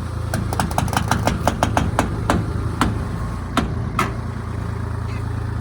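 Tractor engine running steadily, with a run of sharp clanks over the first four seconds, quick at first and then spacing out.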